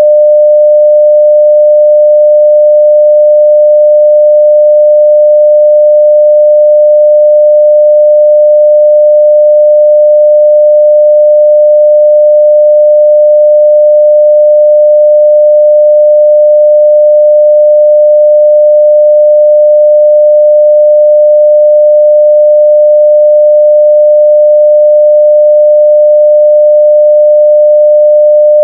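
Steady 600 Hz sine-wave test tone at full level: one unbroken, unchanging pure pitch.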